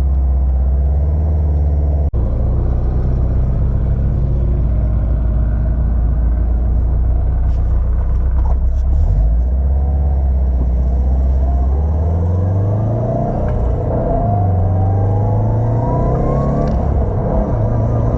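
2007 Subaru Impreza WRX STI's turbocharged flat-four engine on a test drive: a steady low drone that rises in pitch as the car accelerates from about twelve seconds in. The owner says the Cobb short shifter's rattle is no longer heard.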